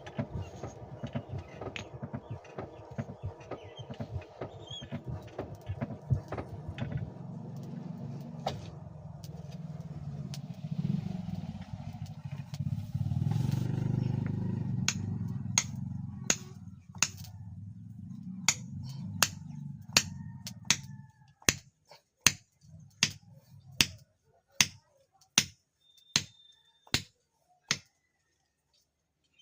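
A low mechanical rumble with rattling clicks that swells in the middle and stops about two-thirds of the way through. Sharp metal strikes start just before the rumble stops and run to near the end, each ringing briefly, about one every three quarters of a second, typical of hammer blows on steel.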